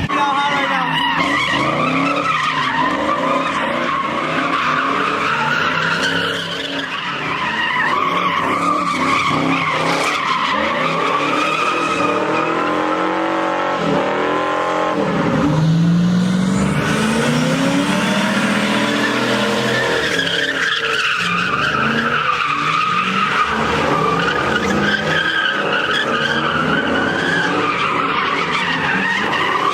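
A car sliding in circles with its tyres squealing on and off in a long, wavering screech, its engine revving up and down, loudest around the middle.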